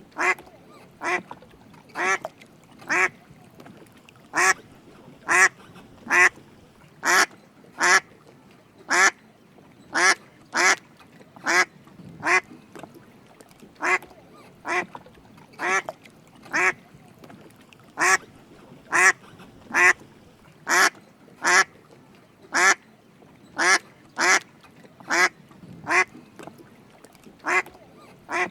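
Drake mallard quacking: a long run of short quacks, a little more than one a second, some coming in quick pairs.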